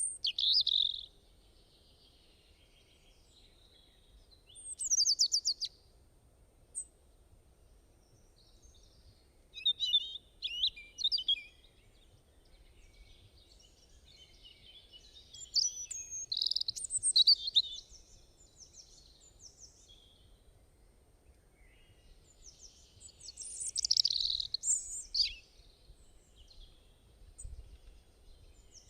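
Wild birds singing and calling in short, high chirping phrases, five or so bursts with quiet gaps between them.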